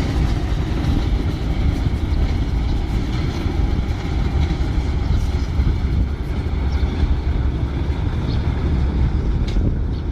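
Steady low rumble of a train at a railway station, with a few faint clicks near the end.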